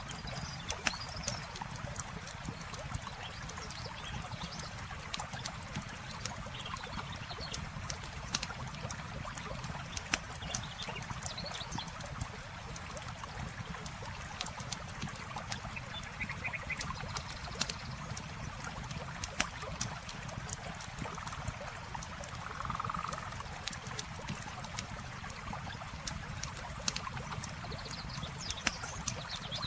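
Campfire crackling with frequent irregular sharp pops over a steady trickle of running water. A few faint short animal calls come and go.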